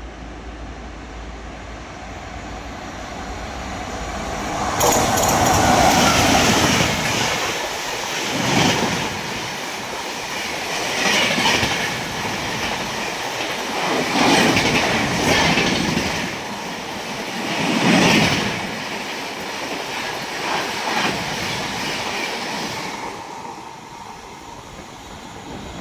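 Express train passing at full speed. The rumble builds over the first few seconds and turns loud about five seconds in. It rises and falls every few seconds as the coaches click-clack past over the rail joints, then fades near the end.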